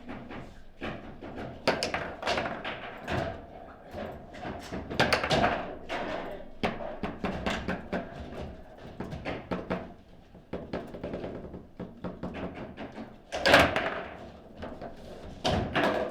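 Table football game in play: fast, irregular knocks and thunks of the ball struck by the rod figures and hitting the table. The loudest hits come about thirteen and a half seconds in and again near the end.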